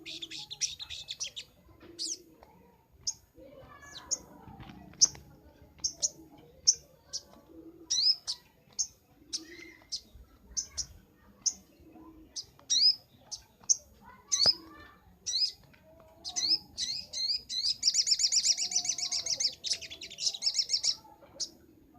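Little spiderhunter (sogok ontong) singing: a long series of short, sharp, high chip notes about two a second, with a rapid high trill at the start and another lasting about three seconds near the end.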